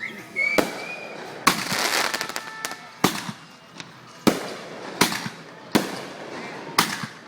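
Fireworks finale: seven sharp aerial shell bangs about a second apart. A spell of crackling follows the second bang.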